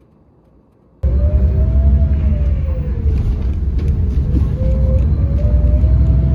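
A loud, steady vehicle rumble that cuts in suddenly about a second in, with a slowly wavering whine over it.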